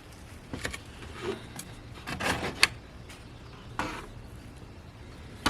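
A handful of short knocks and scrapes as a BMW X5's electric cooling fan assembly is pried and worked loose in the engine bay, the loudest about two and a half seconds in.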